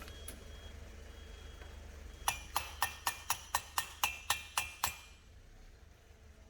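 A quick series of about eleven sharp metal-on-metal taps, roughly four a second, each ringing briefly at the same pitch, over a low steady hum.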